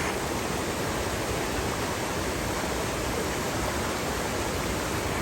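Waterfall and fast-flowing river water rushing steadily.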